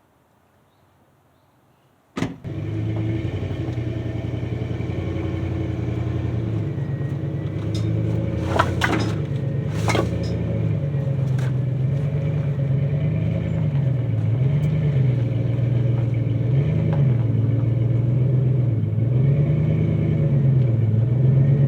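An engine comes in suddenly about two seconds in and runs steadily, its pitch wavering up and down in the second half, with a couple of sharp knocks partway through.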